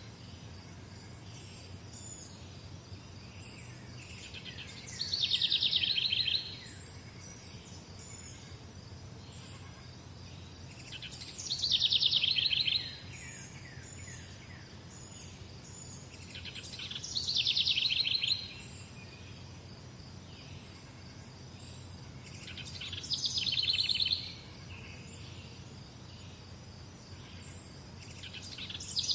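Songbird singing: one bird repeats a short, fast trill that drops in pitch, about every six seconds, over steady background hiss with faint chirps.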